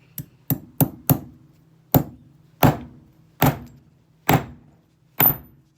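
Hammer striking a Phillips screwdriver bit nine times: four quick blows, then five more about a second apart. The last blow leaves a brief high metallic ring.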